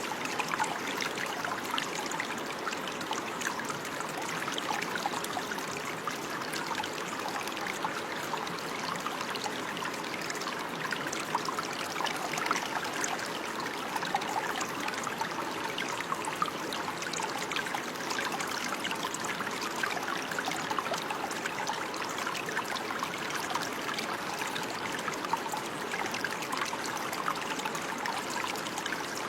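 Running water in a stream, trickling and babbling steadily with many small splashes.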